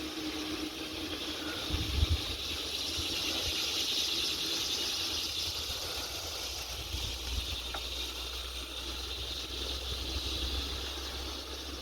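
Riding a bicycle along a trail: steady hiss of tyres and wind on the microphone, with a few low bumps about two seconds in.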